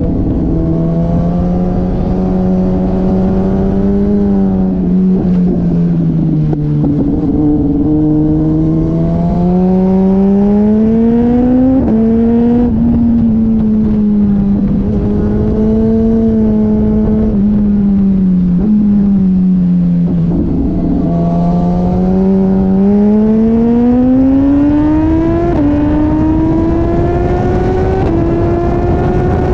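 Motorcycle engine at speed on a race track, its pitch climbing steadily under acceleration and falling away when the throttle closes, several times over, above a constant rush of wind noise.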